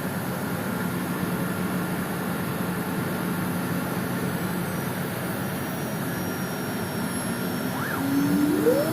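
A CNC router runs with a steady mechanical hum; its 3.2 kW spindle is set to 22,320 rpm with a 4 mm single-flute carbide end mill. About eight seconds in, a whine rises in pitch and then holds, and the machine gets a little louder.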